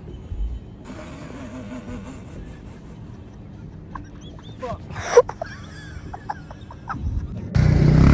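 Low steady vehicle rumble with a few faint squeaks and a sharp sound about five seconds in, then strummed guitar music cuts in loudly near the end.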